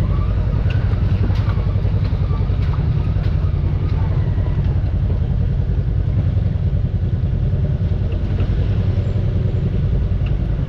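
Off-road vehicle engine running low and steady while crawling the trail, with scattered knocks and clicks in the first few seconds.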